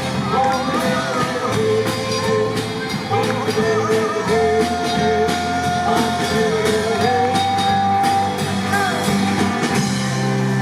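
Live rock band playing: a melody line holding long notes over bass, guitar and steady drum strikes.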